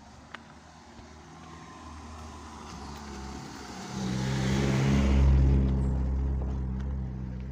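A motor vehicle approaching and passing close: a low engine hum and tyre noise grow to a peak about five seconds in, then ease off while the engine hum carries on.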